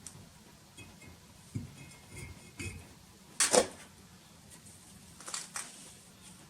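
Scattered knocks and clinks of hard objects being handled. The loudest is a sharp double knock about halfway through, with a quicker cluster of clicks about two seconds later.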